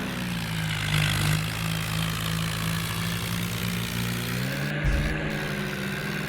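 Tractor engine running at a steady pitch, its note rising about four and a half seconds in, with a pair of low thumps around five seconds in.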